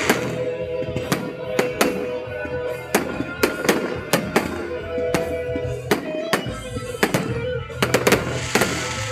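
Fireworks going off in a rapid, uneven series of sharp bangs, about two a second, with music playing underneath.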